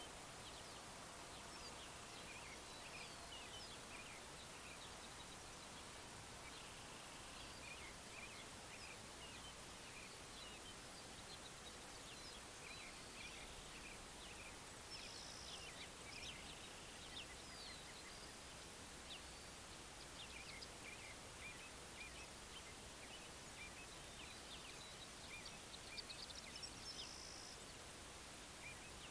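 Faint birdsong at dawn: many short chirps and calls from small birds, scattered and irregular, over a steady background hiss.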